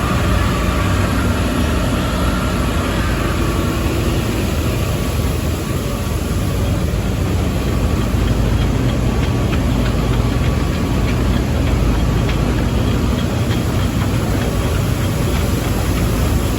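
Loud, steady rumble of a lake freighter's self-unloading machinery running during unloading, with a strong low hum and a dense mechanical din over it.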